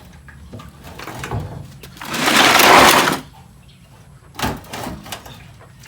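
A loud hiss about two seconds in, lasting about a second, followed by a few short knocks.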